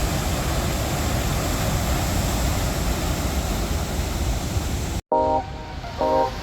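A steady rushing noise with no pitch for about five seconds, cut off abruptly; moments later plucked guitar music begins.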